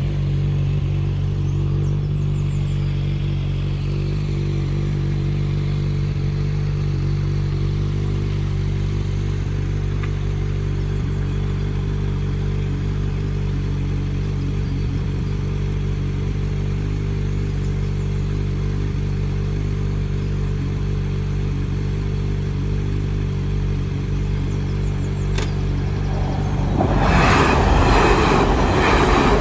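A diesel engine runs steadily with a low, even hum. About 27 seconds in, a Class 185 diesel multiple unit pair comes through loudly over the level crossing.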